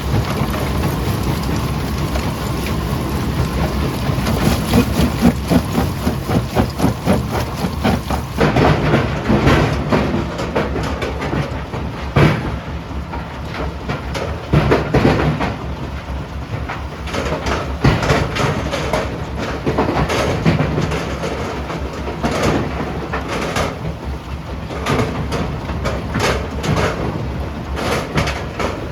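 Primary jaw crusher running with a steady low rumble, with rock cracking and knocking irregularly as the stone is crushed, the knocks coming thicker after the first several seconds.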